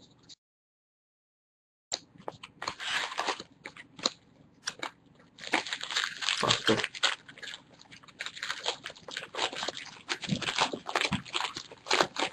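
Dense, irregular crinkling and crackling of plastic card-pack wrappers being handled, with the clicks of cards being shuffled. The sound drops out completely for about a second and a half near the start.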